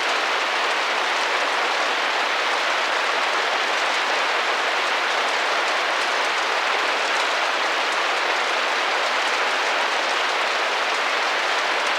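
Steady, even rain tapping against window glass, a dense patter of drops with no change in strength.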